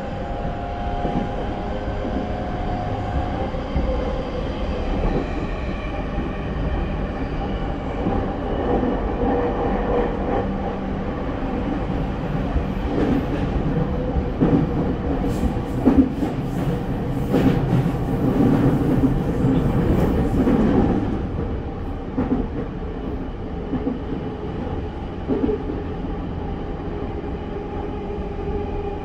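Running sound inside a JR East E231-1000 series electric train car between stations: wheel and track rumble with rail-joint clatter and steady whining tones from the Hitachi IGBT-VVVF inverter and traction motors. About halfway through it grows louder with a stretch of sharp clicks and rattles, then settles back to a steady run.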